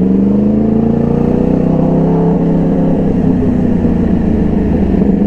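A 2012 Yamaha R1's 1000 cc crossplane inline-four engine pulling in first gear. The engine note rises over about the first two seconds, then drops back and holds steady.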